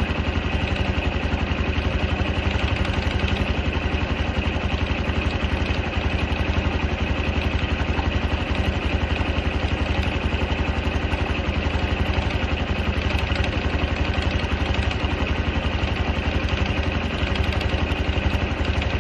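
Honda Super Cub 110 (JA44) air-cooled single-cylinder engine running steadily at idle with a rattling clatter, which the owner asks about as a possible abnormal noise.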